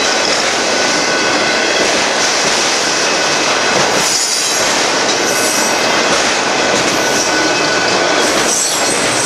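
Autorack freight cars rolling past at close range: a loud, steady rolling rattle of steel wheels on rail, with a thin, steady squeal from the wheels.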